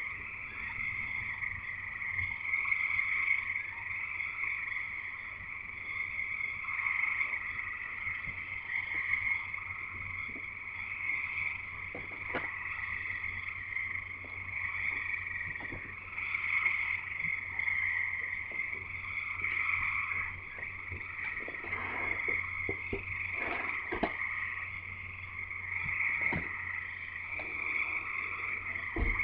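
A dense chorus of many frogs calling at once, a continuous, pulsing high-pitched din with no gaps, with a few small clicks in the second half.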